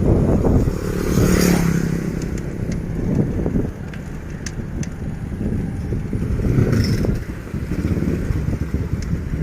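Wind rumbling on the microphone of a moving bicycle, with a motorcycle engine passing close by about a second in.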